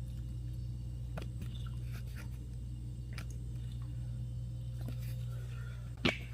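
Scattered faint clicks and taps of hand tools on metal as a nut and the rear brake pedal are worked off a Harley-Davidson Street Glide, with one sharp knock about six seconds in, over a steady low hum.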